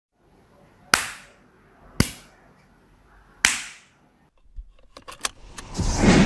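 Cartoon sound effects: three sharp bangs, the second a second after the first and the third a second and a half later, each with a short ringing fade. A few quick clicks follow, then a loud rushing rumble that starts near the end.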